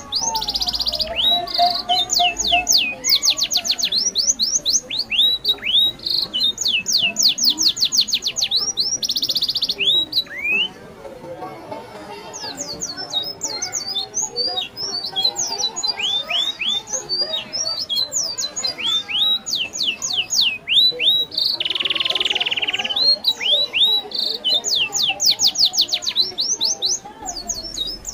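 Birds calling in quick runs of falling whistled notes, several notes a second, with a few short buzzy bursts; the calling drops away briefly about ten seconds in.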